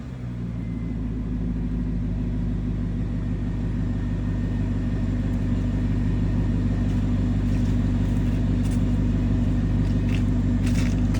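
Volvo XC90's 4.4-litre Yamaha V8 idling steadily through a custom Magnaflow exhaust with the middle resonator and rear muffler deleted. A few faint ticks near the end.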